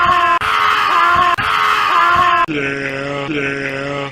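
A goat's loud, screaming bleats, three long strained calls in a row. About two and a half seconds in, the sound switches to a lower, steadier bleat repeated about once a second.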